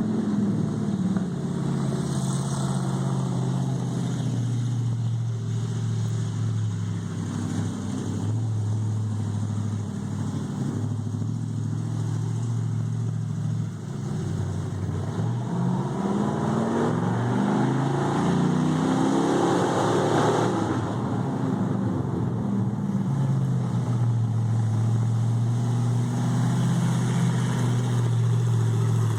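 A homemade race car's engine running at a low, steady note, then revving up from about halfway through to a peak, and dropping back to a steady low run near the end.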